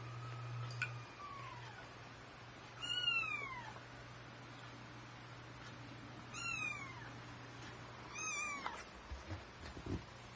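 Young kittens, about three weeks old, meowing. A long high call ends about two seconds in, then three shorter meows follow a few seconds apart, each falling in pitch.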